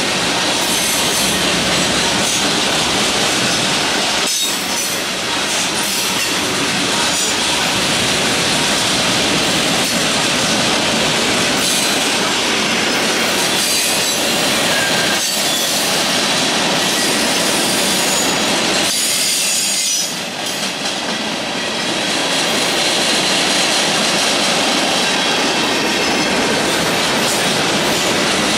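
Freight cars rolling past on a bridge: a steady, loud rumble and rattle of steel wheels on rail, with wheel squeal riding faintly on top.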